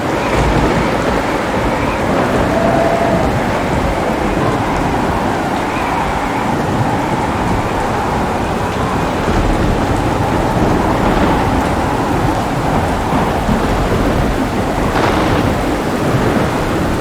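Heavy rain with thunder: a deep rolling rumble breaks in at the start and keeps rolling under the steady rain, with a sharper crack about fifteen seconds in.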